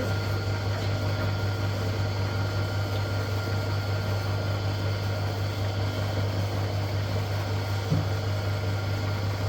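An engine running steadily at idle, a constant low hum with no change in speed, with one brief knock about eight seconds in.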